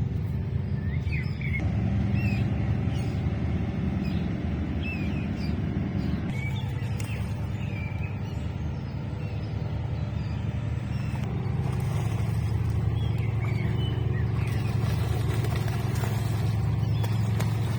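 A steady low motor rumble, like a running engine or traffic. Small birds chirp briefly over it, mostly in the first half.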